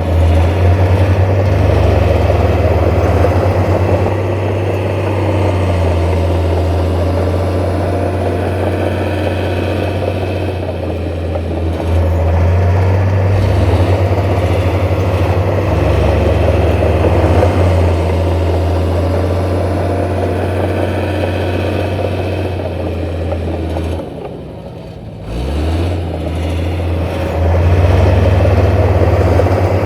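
Heavy diesel engine of earthmoving machinery running steadily under load, with a brief drop about 24 seconds in before it picks up again.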